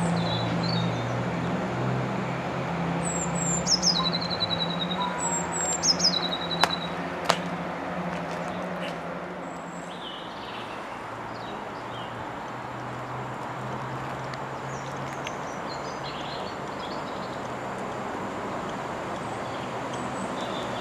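A steady low engine hum that drops away about halfway through, with high bird chirps and two sharp clicks a few seconds in.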